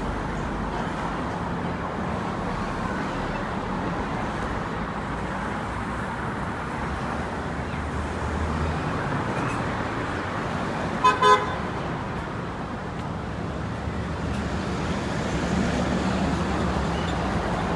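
Steady city-avenue traffic noise from passing cars and engines. About eleven seconds in, a car horn gives two short toots.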